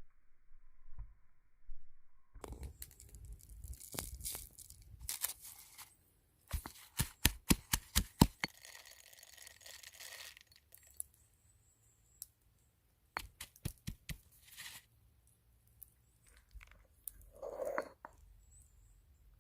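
Food-handling sounds: bursts of tearing and crunching noise, and a quick run of about a dozen sharp clicks or taps, then a few more clicks later on.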